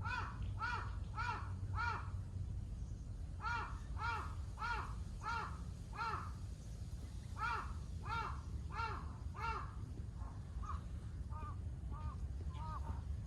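Crow cawing in repeated runs of short harsh calls: four caws, a pause, six, then five, then fainter caws near the end.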